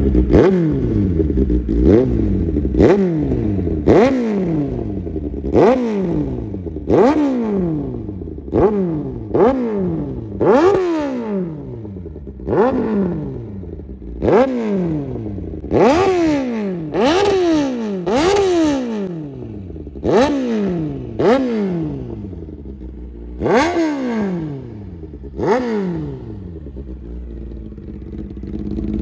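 Kawasaki Ninja sportbike with a loud aftermarket straight-through exhaust, revved at a standstill in some two dozen quick throttle blips. Each rev climbs sharply and falls back to idle over about a second, one every second or so, the later ones a little smaller.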